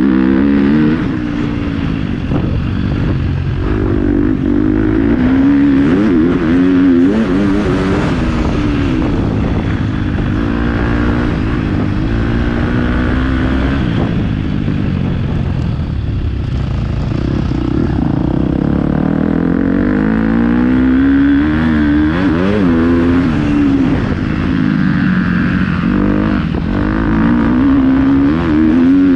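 Motocross dirt bike engine heard from on board, revving up and falling back over and over as the throttle is worked and gears change around the track.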